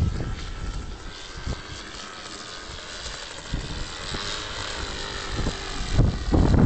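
Radio-controlled model aeroplane in flight, its motor a thin buzz wavering in pitch as it flies past. Wind buffets the microphone at the start and again, louder, near the end.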